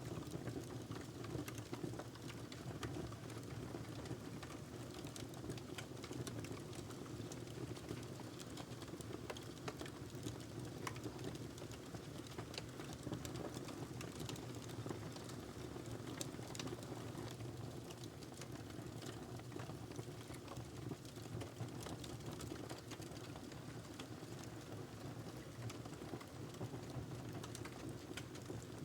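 Fire burning in a fireplace, crackling with many small sharp pops over a steady low rushing hiss.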